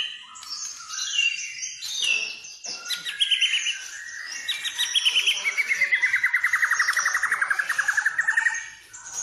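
White-rumped shama (murai batu) singing a varied song of quick whistled and chattering phrases. Over the last few seconds a long, fast trill of rapid notes dips in pitch and then rises again.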